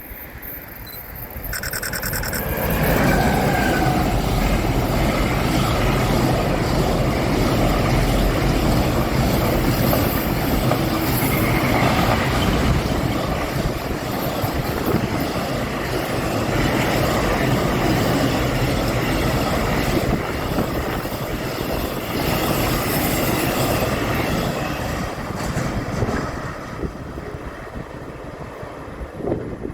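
A train passing close by on the track: a loud, steady rush of wheels and rails lasting about twenty seconds, then easing off near the end. A brief high tone sounds just before it builds.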